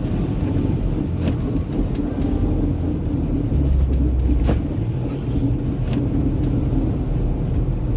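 Steady low rumble of a moving vehicle heard from inside the cab: engine and tyres running over a snow-covered road, with a few light knocks.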